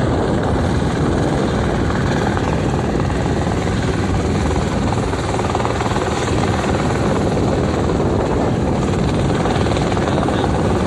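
Police helicopter running steadily at close range: a loud, unbroken rotor and turbine noise, heaviest in the low end.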